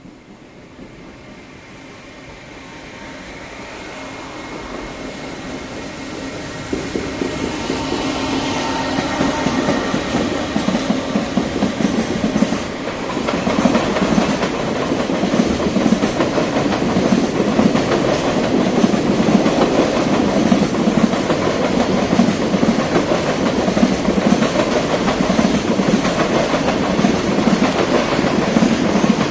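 Electric freight train approaching and passing. It grows steadily louder over the first dozen seconds, then the wagons' wheels give a continuous rumble and rapid clickety-clack on the rails.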